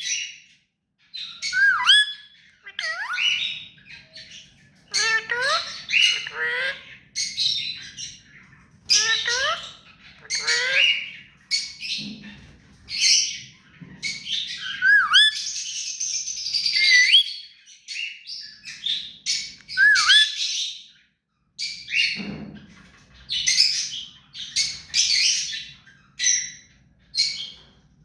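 Ring-necked parrot (rose-ringed parakeet) calling over and over: loud, harsh squawks and shrill chirps, each a short call with quick swoops in pitch, many ending in a falling hook, in a steady string with brief pauses.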